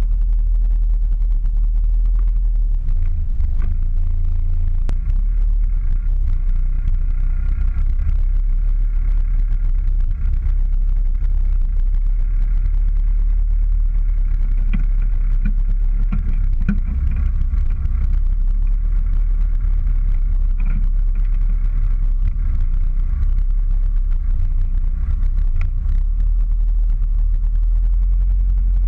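Race car engine idling steadily, a loud low hum.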